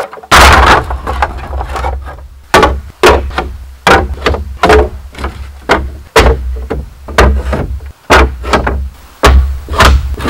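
Bamboo being chopped with a blade: sharp strikes about two a second, over a low rumble.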